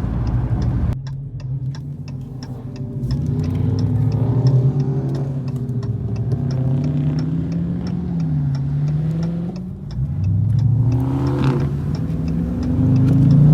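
Dodge Challenger V8 engine cruising, its pitch rising and falling with the throttle and climbing in a short rev about eleven seconds in, with a hazard-light flasher ticking steadily over it.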